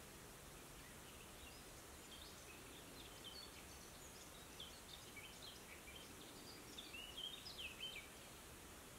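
Faint birdsong over a quiet background hiss: quick, high, short chirps and phrases from a songbird, starting about two seconds in and loudest near the end.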